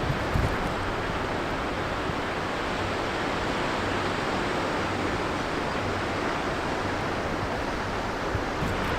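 Steady wash of sea surf on a pebble beach, with no breaks or single events.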